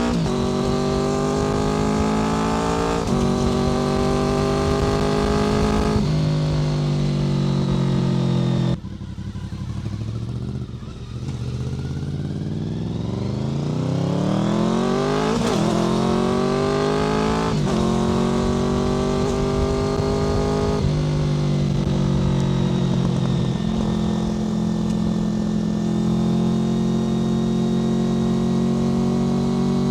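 Honda VFR800 FI's 90-degree V4 engine through a Black Widow aftermarket exhaust, heard on the move. It pulls up through the gears with upshifts about 3 and 6 seconds in, the throttle shuts off about 9 seconds in and the revs fall away, then it accelerates again with upshifts around 15, 18 and 21 seconds before holding a steady cruise.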